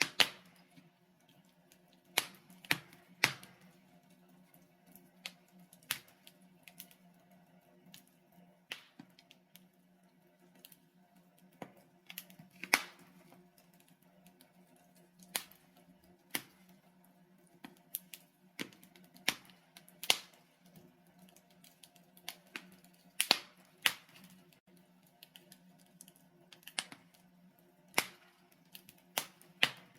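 Wood fire in a fireplace crackling, with irregular sharp pops from the burning logs, some much louder than others, over a faint steady low hum.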